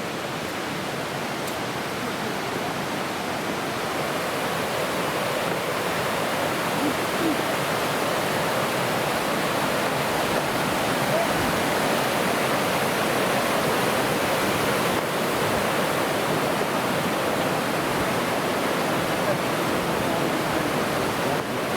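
A waterfall rushing steadily, getting louder over the first several seconds.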